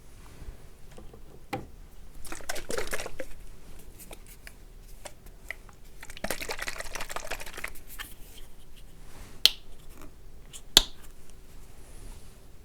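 Close-miked ASMR handling of an oil cleanser bottle: two squishy, liquid passes of a second or so each, then two sharp clicks about a second apart.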